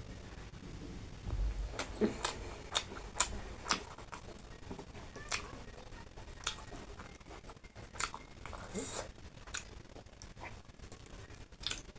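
Close-miked eating sounds: sharp, wet mouth clicks and lip smacks of someone chewing food, irregularly spaced about one a second.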